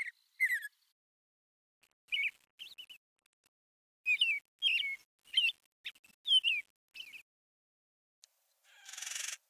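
A songbird calling: a string of short, sharp chirps that sweep down in pitch, about two a second, with a brief buzzy trill near the end.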